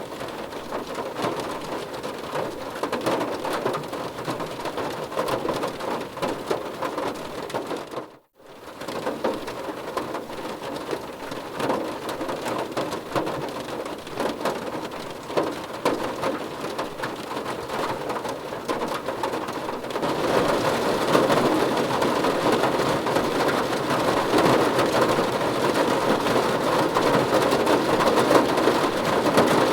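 Rain pattering on a car's body and glass, heard from inside the car: a dense, steady hiss of drop impacts. It cuts out for a moment about 8 seconds in, then comes back, and gets louder about 20 seconds in.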